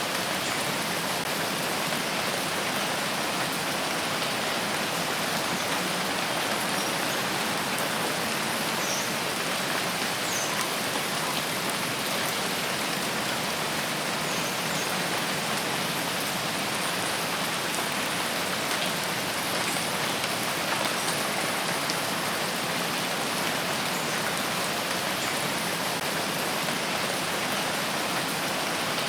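Steady rain falling on foliage, a dense even hiss with a few faint individual drops.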